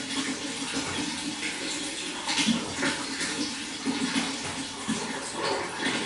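Running water flowing and splashing steadily, with a few louder splashes scattered through it.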